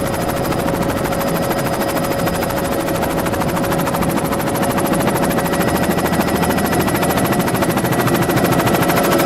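Helicopter running: a fast, even rotor beat over a steady high-pitched turbine whine, growing slightly louder near the end.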